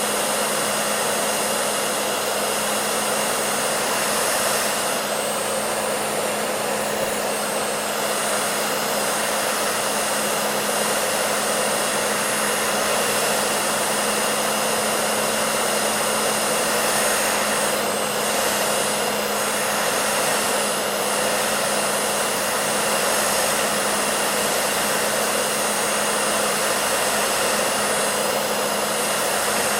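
Hair dryer running steadily: an even rushing noise of fan and airflow, with a constant low hum of the motor under it.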